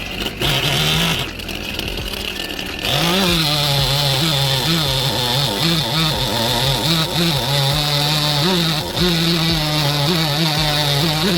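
Chainsaw running at high revs while carving wood, its pitch repeatedly dipping and recovering as the chain bites and frees. For the first three seconds it is lower, then it runs up and holds loud.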